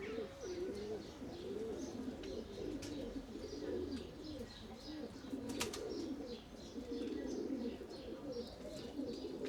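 A flock of pigeons cooing continuously, many voices overlapping, with short high chirps above them and one sharp click about five and a half seconds in.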